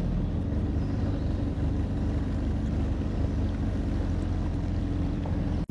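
Yamaha WaveRunner personal watercraft engine running steadily under way.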